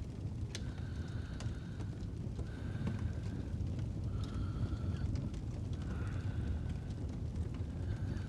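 Fireplace fire with a steady low rumble and scattered sharp crackles, with slow, regular sleeping breaths layered over it, each breath carrying a faint pitched note.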